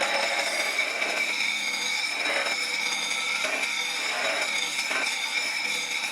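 Electric grinder running with a steady high whine while a lathe chisel is sharpened on it, with a few short rough bursts of grinding as the steel is pressed to the wheel.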